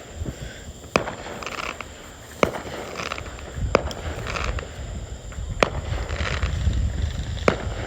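Consumer fireworks going off: five sharp bangs a second or two apart, with fainter crackling between them.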